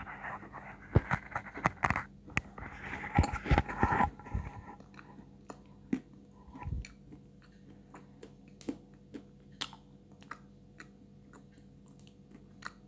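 Close-miked biting and chewing of a hard lump of white edible clay (Astana 2). Loud crunching bites fill the first four seconds or so, then give way to quieter, scattered chewing clicks.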